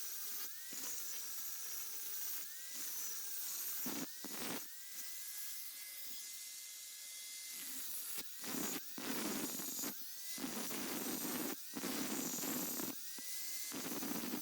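Small high-speed grinder run in short bursts, its whine sweeping up as it spins up each time, then grinding against steel in the second half, contouring the metal of a welded fender strut.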